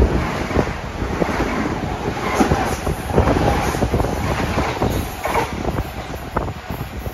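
Metro-North commuter train running past and fading away, its rumble dying down with scattered wheel clicks on the rails, plus wind on the microphone.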